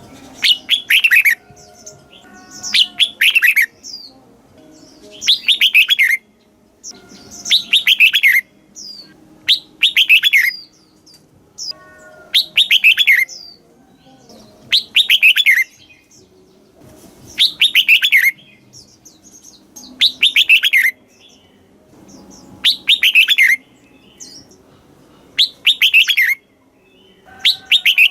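Red-whiskered bulbul singing a loud, short phrase about every two and a half seconds. Each phrase is a quick run of falling whistled notes, often given in two parts.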